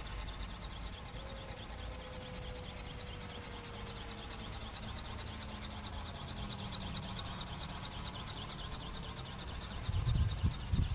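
Outdoor ambience: a steady low wind rumble under a fast, faint high chirping. Near the end, a louder low buffeting comes from wind on the microphone.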